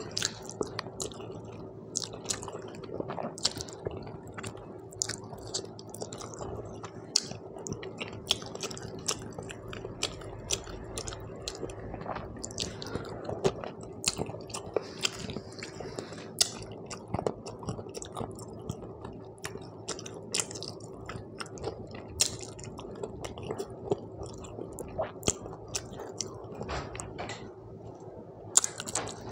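Close-miked chewing of a mouthful of rice and mutton curry, with frequent wet clicks and smacks of the mouth at an irregular pace. A faint steady hum runs underneath.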